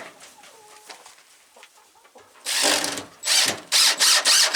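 Power drill run in short bursts, five quick pulses about two and a half seconds in after a quieter stretch with faint chicken clucks.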